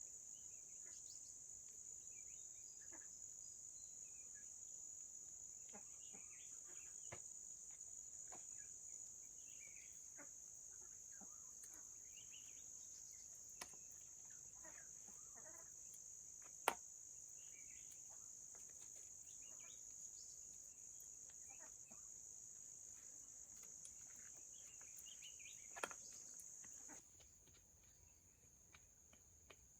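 Faint, steady, high-pitched insect chorus. There are scattered light ticks and rustles, with a sharp click about halfway through and another near the end. The chorus drops in level near the end.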